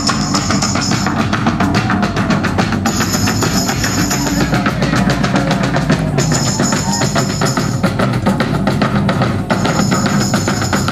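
Live Celtic tribal drum jam: many drums playing a fast, dense beat over a steady low drone, with a bright high ringing layer that comes in and drops out every couple of seconds.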